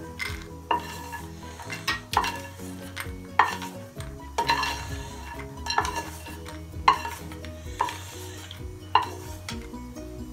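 A slotted wooden spatula scraping and knocking in a nonstick kadhai and against a small bowl as fried cashews and almonds are scooped out, with a sharp knock about once a second.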